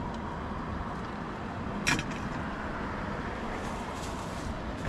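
Steady road-traffic noise, with a single short sharp click about two seconds in.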